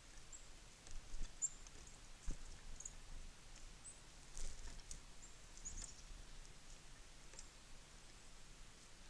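Small birds at a feeder giving scattered short, high chirps, with a few sharp clicks and knocks, about one and two seconds in, from birds pecking and landing on the feeder.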